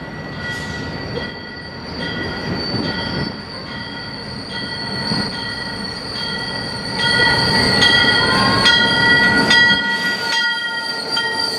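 El Chepe passenger train, hauled by a Ferromex diesel locomotive, rolling slowly into a station with a steady high-pitched metallic squeal from its wheels and brakes over a low rumble. It gets louder about seven seconds in as the locomotive draws level and passes close by.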